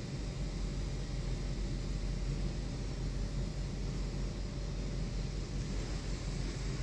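Car wash pressure washer running: a steady low rumble with an even hiss of spray over it.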